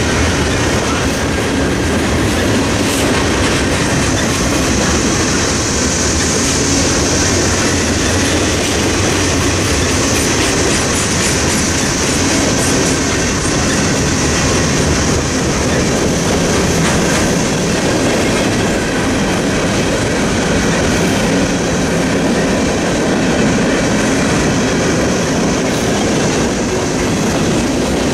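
Freight train cars rolling steadily past, the steel wheels running loudly over the rails, with a high hiss over the rumble.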